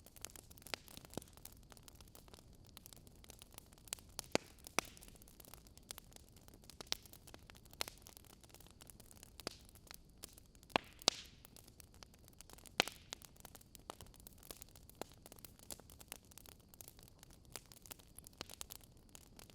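Wood fire crackling: irregular sharp pops and snaps from burning logs over a faint steady hiss, with a few louder pops about four seconds in and again around eleven to thirteen seconds.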